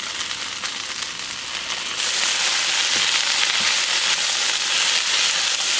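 Noodles with pork belly and greens sizzling as they stir-fry in a wok, with the light scrape and clatter of stirring. The sizzle turns suddenly louder about two seconds in.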